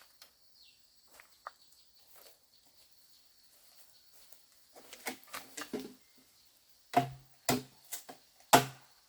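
Faint clicks and rustling, then three loud sharp knocks or thumps in the last couple of seconds, each with a short low thud.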